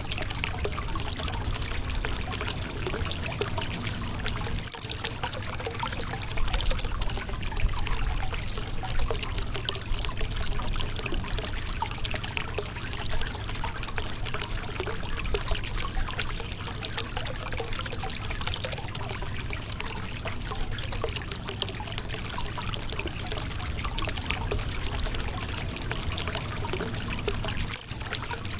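Shallow river water flowing steadily over a rocky bed, with close trickling and splashing over the stones.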